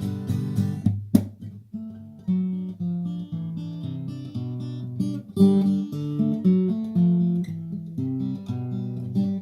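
Acoustic guitar instrumental break: strummed chords, a sharp accented hit about a second in, then single picked notes played as a melody.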